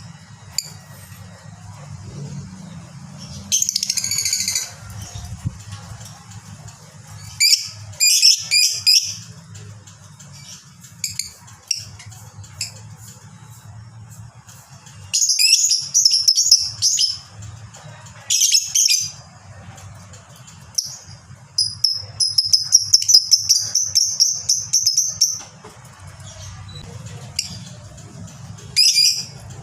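Lovebird calling in short bursts of shrill, high-pitched chatter, with one long, fast trill of about three seconds two-thirds of the way through: the long chattering 'ngekek panjang' that keepers play to set other lovebirds calling. A faint low hum runs underneath.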